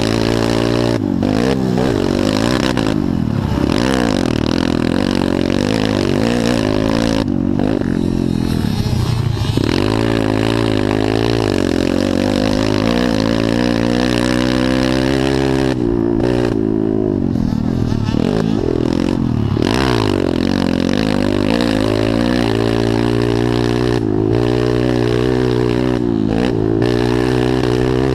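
Several pit bike engines racing on a motocross track, their pitch rising and falling again and again as the riders open and close the throttle.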